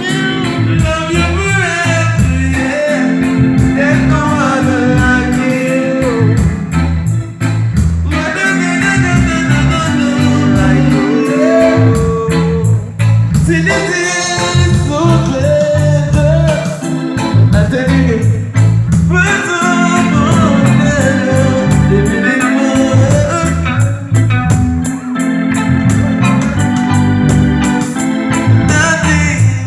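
Live reggae band playing a riddim: a looping bass line, organ and a steady beat of drums and cymbals, with a singer on top.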